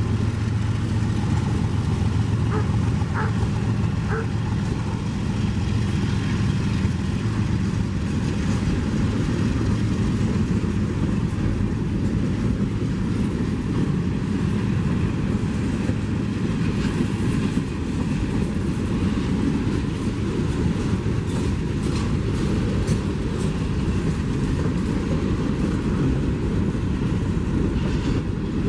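A train rolling past on the track: a locomotive engine hum at the start gives way to a steady rumble of cars over the rails, with short sharp wheel clicks in the last third.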